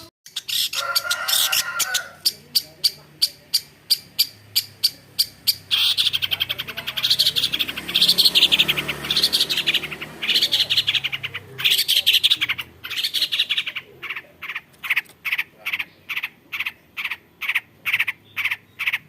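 Long-tailed shrike singing: a long string of sharp, rapidly repeated high notes, about three or four a second, breaking in the middle into a dense, fast chattering run for several seconds before the repeated notes resume.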